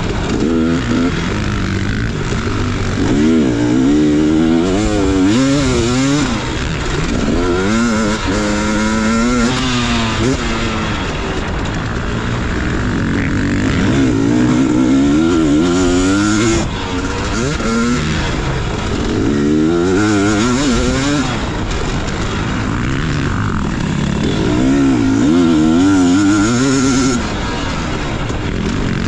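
Dirt bike engine revving hard and easing off over and over, its pitch climbing and dropping back every few seconds as the throttle is worked and gears change.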